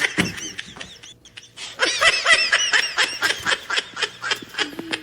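'Goofy ahh laugh' meme sound effect: a cartoonish laugh in quick, high-pitched bursts, one short run at the start and a longer one from about two seconds in.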